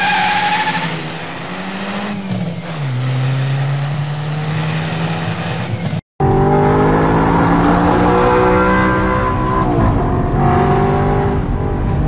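Audi R8 V8 engine under hard driving, heard from inside the cabin: after a steady held tone for about the first second, the engine note falls in pitch, and after a cut about six seconds in it revs up and drops back repeatedly as it pulls through the gears.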